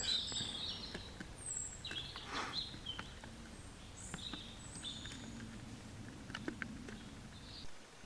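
Small birds chirping here and there, short high calls, over a quiet woodland background, with a brief faint rustle about two seconds in.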